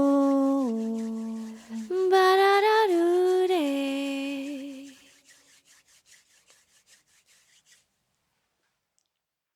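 A singer's voice humming two long closing notes, each stepping down in pitch, the second wavering slightly as it ends, then fading out to silence.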